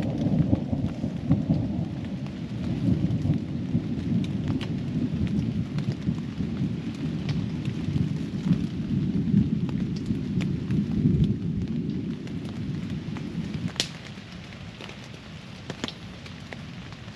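Rain falling on a tent, with a long rolling rumble of thunder that dies away about three-quarters of the way through. Scattered sharp taps of drops on the tent fabric.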